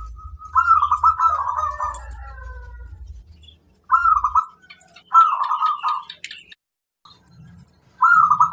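Zebra dove (perkutut) cooing: four rapid rolling phrases pitched around 1 kHz, a long one in the first two seconds, two shorter ones around the middle and one near the end, with pauses between. A low hum runs under the first half.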